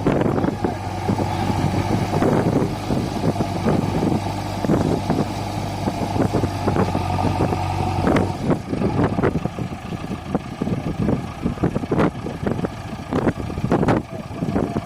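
Heavy diesel engines of farm machinery running, with a steady low hum that turns into an uneven, choppy rumble about eight seconds in.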